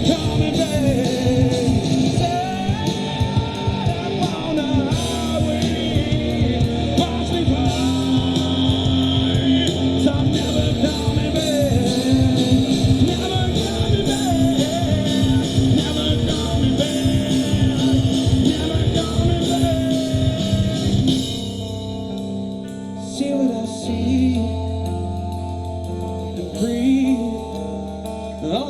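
Live rock band playing a song with drums, electric guitar, bass and a singing voice. About 21 seconds in, the drums drop out, leaving a quieter stretch of held bass and guitar notes with a few sung lines.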